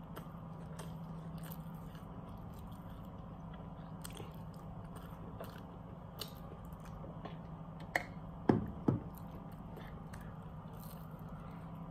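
A person chewing and biting into a crispy fried chicken burger, eating fast, with many small wet mouth clicks over a steady low hum. About two-thirds of the way through come a sharp click and two louder knocks close together.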